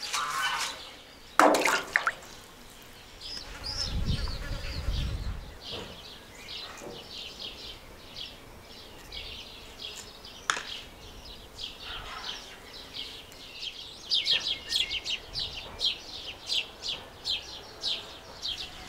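Small birds chirping and singing in quick repeated notes, busiest near the end. A single sharp knock about a second and a half in is the loudest sound.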